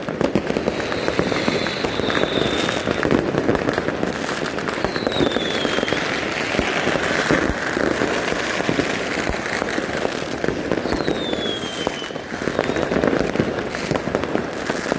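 New Year's fireworks and firecrackers going off all around in a continuous dense crackle of pops and bangs, with three high whistles that slide downward.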